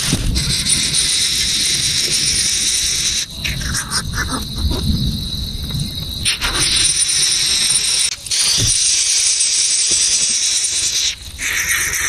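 Dense, steady high-pitched chirring of insects over a low rumble, broken briefly a few times.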